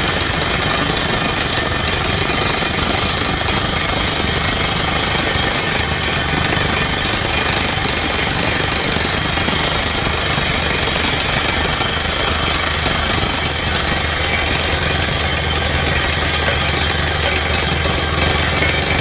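Borewell drilling rig running steadily under load, a continuous loud hammering noise over the low drone of its engine.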